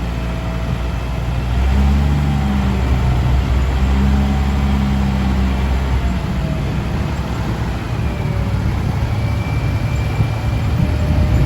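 Ten-wheel dump truck's diesel engine running as the truck drives past. It is loudest in the first half and then eases, with steady road and tyre noise.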